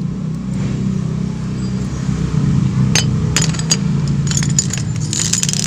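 Small metal carburetor parts clinking sharply against each other and against hard surfaces, in a scatter of clicks in the second half, over a steady low motor hum.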